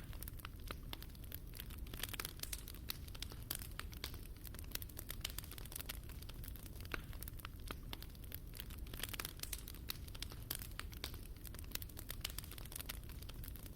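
Fire in a fireplace crackling, with many small irregular pops and snaps over a low steady rumble.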